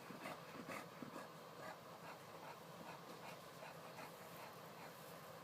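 Faint short squeaky sounds from a small animal, repeated irregularly and clearest in the first two seconds.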